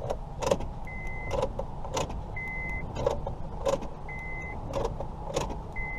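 A car's electronic warning chime beeping steadily, one half-second beep about every 1.7 seconds, with several sharp clicks in between as the key and the ignition lock cylinder of a 2005 Honda Civic are worked.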